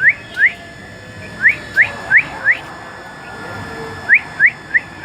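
A bird calling: short, clear whistled notes that each rise quickly in pitch, repeated about three a second in runs of two, then four, then three.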